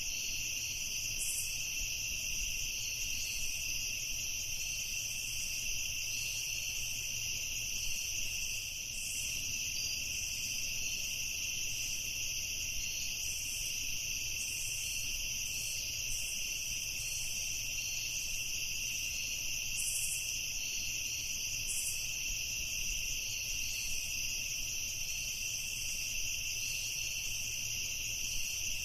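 Night insect chorus: crickets trilling continuously in steady high-pitched bands, with a faint low hum beneath.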